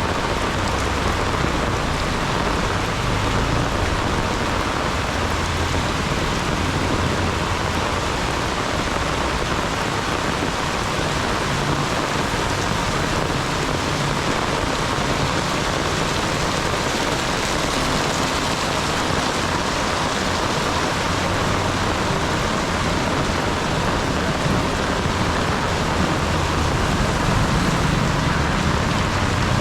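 Heavy rainstorm, the rain falling steadily and hard, with a low rumble of road traffic underneath.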